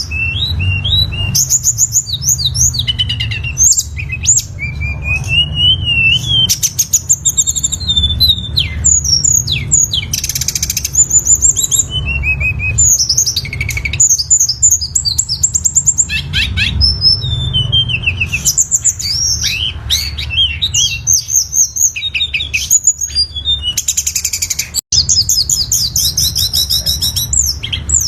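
Tledekan gunung songbird singing a long, varied song of rapid high chirps, trills and gliding whistled phrases, with only short breaks, over a low background rumble. The sound cuts out for an instant near the end.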